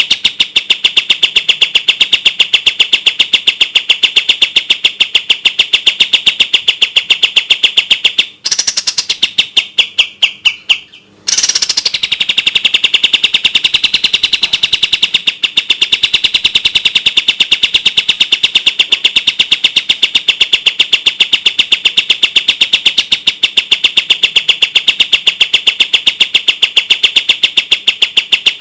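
Kapas tembak bulbul singing its rapid 'tembak' song: a loud, fast, evenly spaced string of high notes. About eight seconds in the string breaks off into a short pause of fainter notes, then starts again about three seconds later.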